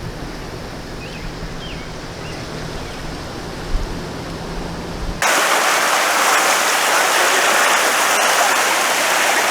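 Low outdoor rumble with a few faint chirps. About five seconds in it switches abruptly to the loud, steady rush of fast-flowing floodwater.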